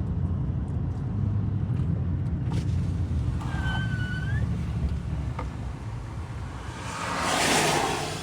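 Steady low rumble, then a vehicle passing close by near the end, its rushing sound swelling and fading away. A short chirp that dips and rises comes about four seconds in.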